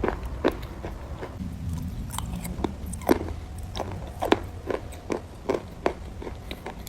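Crunchy chalk being bitten and chewed close to the microphone: sharp, irregular crunches, about two a second, over a low steady hum.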